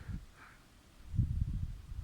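Thunder rumbling, a low rumble that sets in suddenly about a second in.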